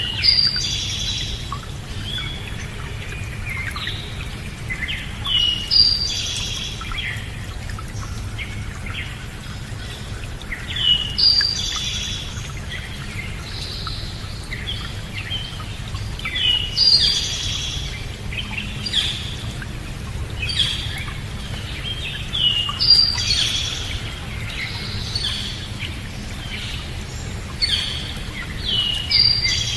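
Songbird repeating the same short phrase of falling, chirping notes about every six seconds, with other chirps in between, over a steady low rushing background.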